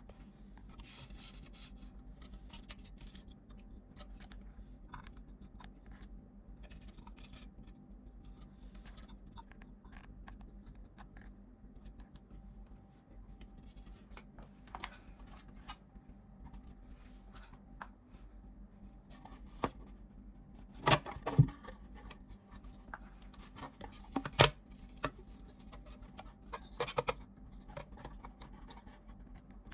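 Hand work on small parts at a bench: scattered light scrapes, rubs and clicks, with a few sharper knocks about two-thirds of the way through, over a faint steady hum.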